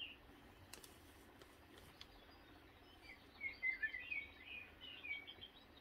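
A small bird chirping in a quick run of short, high notes, heaviest from about three seconds in, over faint room noise. Two faint clicks come before it.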